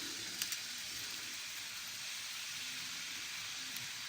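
Steady background hiss, with two faint clicks about half a second in and another faint click near the end.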